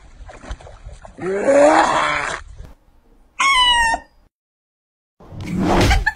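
A cat meowing: a long call rising in pitch about a second in, then a higher, shorter cry. Near the end, a loud noisy rush of sound.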